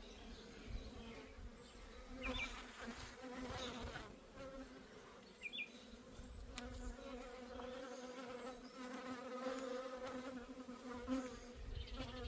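Honeybees humming around an opened hive, a steady drone, with a few light clicks.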